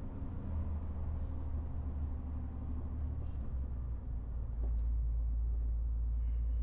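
MAN TGX 18.470 truck's six-cylinder diesel and cab rumbling steadily on the move; the low rumble steps up and gets louder about two-thirds of the way through.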